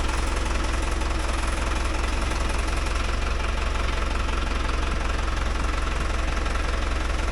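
Tractor engine running steadily at a constant speed with an even low rumble, with no hammer strikes or changes in pace.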